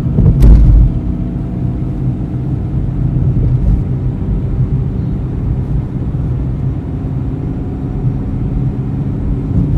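Car driving, a steady low rumble of engine and road noise, with a single thump about half a second in.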